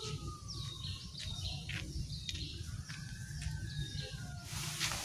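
Birds chirping: many short, high calls that fall in pitch, repeated throughout, over a steady low rumble, with a rush of hiss near the end.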